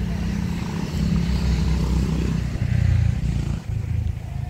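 Express passenger train approaching the station, its locomotive's low hum growing louder, with a brief dip near the end.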